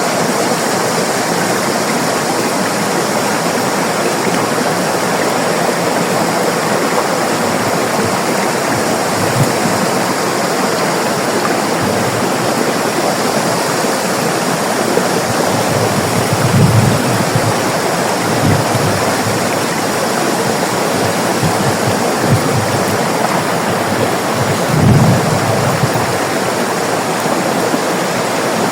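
River water flowing in a steady, even rush. Two brief low rumbles rise out of it, one a little past the middle and one near the end.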